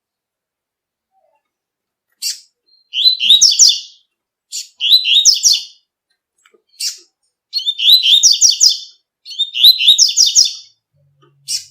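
Double-collared seedeater (coleiro) singing the 'tui-tui' song: about seven short phrases of quick, high, repeated notes, some under a second and others about a second and a half long, with brief pauses between them.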